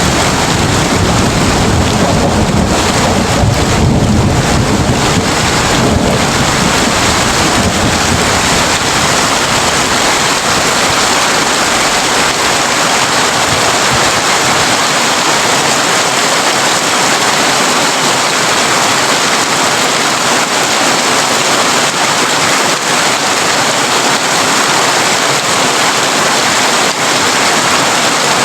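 Heavy rain drumming on a tin roof, a steady, dense hiss. A low thunder rumble under it at the start dies away over the first dozen seconds.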